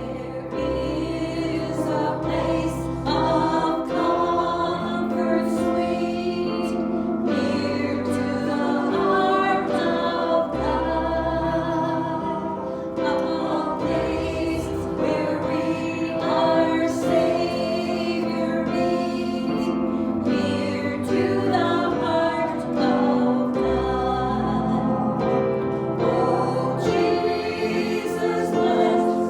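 Worship music: a group of voices singing together over instrumental accompaniment, with sustained bass notes and a regular beat.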